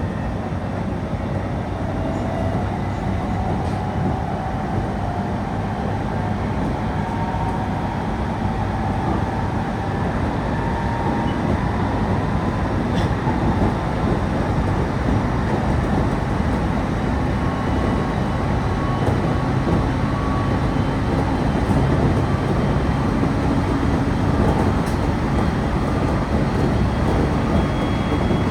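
Train running on the rails, heard from inside the passenger car: a steady low rumble of wheels and track, with a motor whine that rises in pitch over the first several seconds as the train gathers speed.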